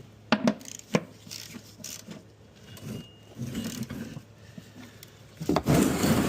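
Sharp metal clicks and knocks of hand tools as a drain plug on a skid steer is tightened, then a loud scraping rub near the end.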